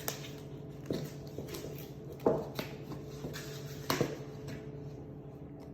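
A few short knocks and taps from a hard-frozen ice cream container being handled and tapped to show it is solid, over a steady refrigerator hum.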